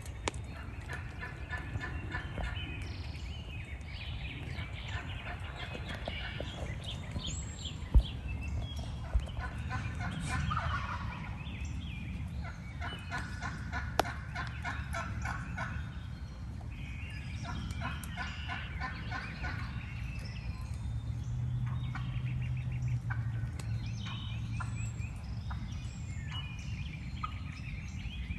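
Several wild turkey gobblers gobbling about six times, rapid rattling gobbles coming one after another. A single sharp knock sounds about eight seconds in.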